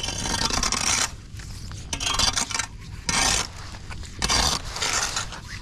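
Repeated scraping strokes, about one a second, of a tool dragging debris across a clogged storm drain, over a steady low rumble.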